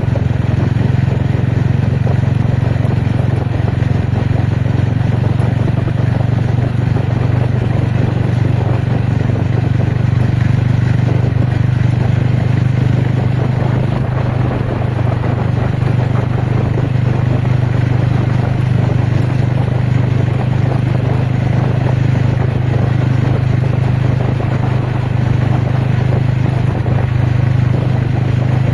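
Ronin motorcycle engine running steadily under way, its pitch holding nearly constant, with rushing noise over it.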